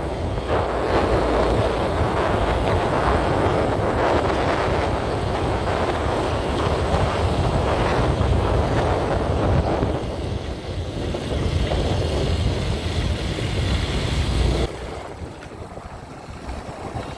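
Wind rushing over the microphone of a moving Honda CB Unicorn motorcycle, with the bike's single-cylinder engine rumbling underneath. The rushing drops away sharply near the end.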